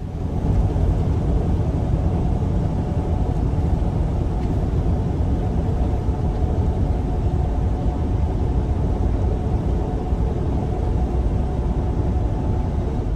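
Semi-truck running, heard from inside the cab as a loud, steady low rumble of engine and road noise.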